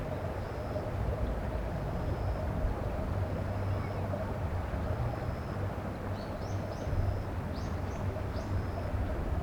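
Several quick, high, rising bird chirps in the second half, over a steady rushing background noise with a faint high note repeating about once a second.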